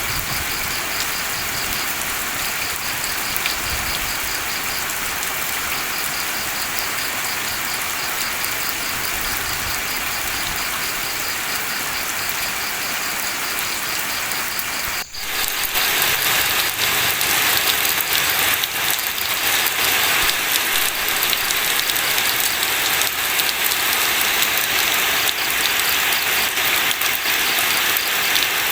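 Steady rain falling. About halfway through it breaks off for an instant and comes back louder and hissier, as at a splice to another rain recording.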